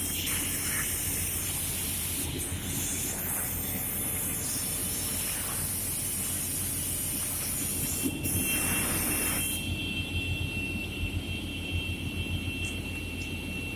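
Holzma panel saw running with a steady low hum and a loud high hiss. Near two-thirds of the way through there is a short surge, the hiss stops, and a steady high whine carries on.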